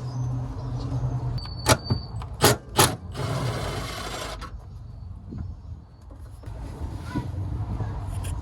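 Hand tools knocking sharply three times, metal on metal, as sockets are handled for the seat bolts. This is followed by a rushing scrape lasting about a second and a half, over a low steady hum.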